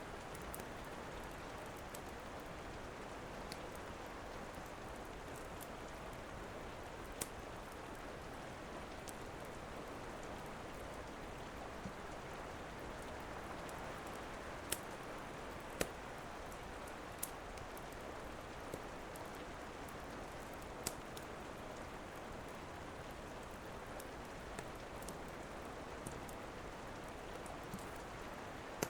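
Steady rain, with the sharp single pops and crackles of a wood fire burning in a fireplace every second or few.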